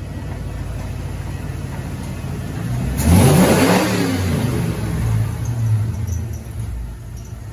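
1987 Ford Bronco's engine running, revving up sharply about three seconds in with a rising pitch, then settling back to a steady run.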